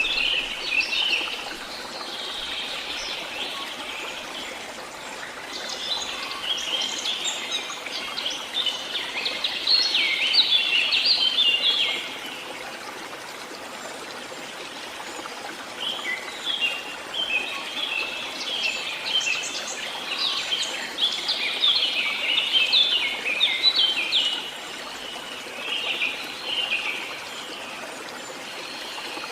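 Songbird singing long runs of rapid high chirps, in two main bursts with a pause of a few seconds between them, over the steady rush of flowing water.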